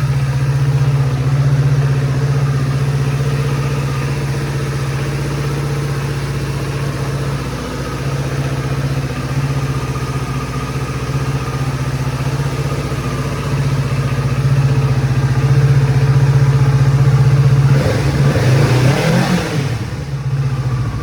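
Kawasaki Z650 motorcycle engine idling steadily through its stock exhaust, still warming up after a cold start. Near the end the throttle is blipped once, and the revs rise and fall back within about two seconds.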